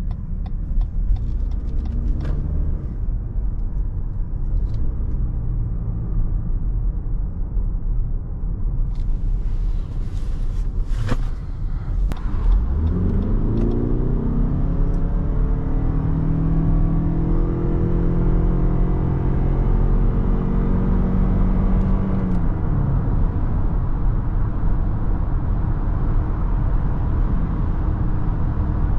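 Lexus NX heard from inside the cabin during a full-throttle 0–100 km/h run. Steady road noise and a few sharp clicks come first; about twelve seconds in, the engine note rises quickly and keeps climbing for about ten seconds. It then falls away to steady road and wind noise at highway speed.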